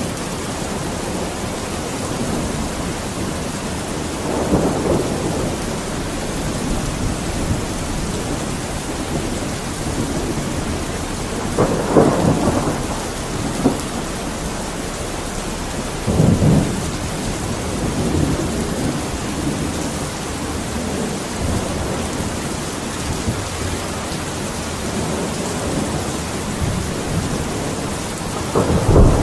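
Steady rain falling, with rolls of thunder swelling up several times, strongest about twelve and sixteen seconds in, and a deep rumble building at the very end.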